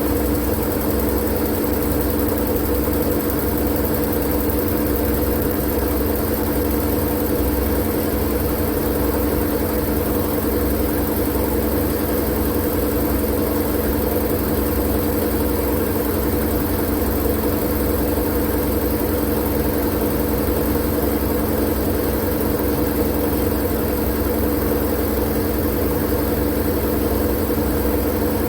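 White-noise track of a continuous machine-like hum: a steady low rumble with a few fixed droning tones and an even hiss on top, never changing.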